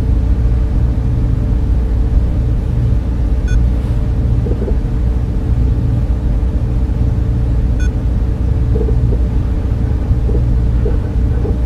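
Server room cooling fans and equipment running: a steady, unbroken low hum with a faint steady tone above it.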